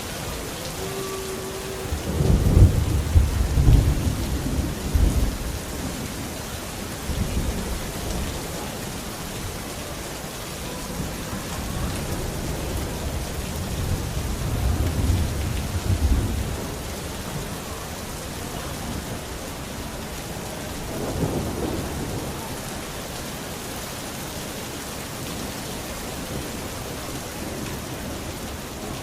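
Steady rain falling, with rolling thunder: a loud low rumble about two seconds in that lasts several seconds, then weaker rolls about halfway through and again later.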